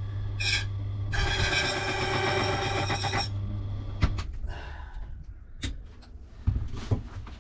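Key cutting machine running with a steady hum, its cutter grinding metal off a safe key for about two seconds, then the motor stops about four seconds in, followed by a few sharp clicks and knocks.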